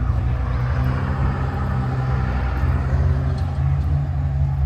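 A car engine idling steadily, a low even running hum with no revving.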